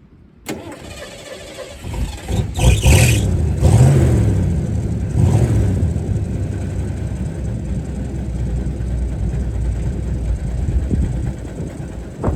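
A car engine starts, revs up and down a couple of times and then runs steadily.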